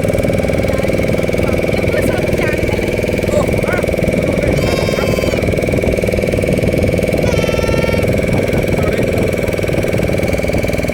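Boat engine running steadily. Two short, high calls rise over it, about five seconds in and again about seven and a half seconds in.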